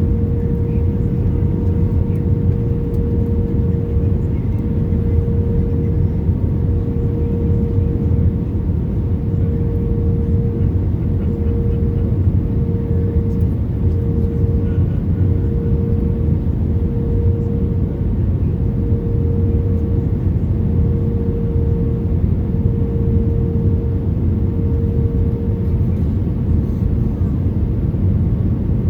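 Airbus A320 cabin noise: a steady low rumble of engines and airflow with a constant mid-pitched hum, unchanging throughout.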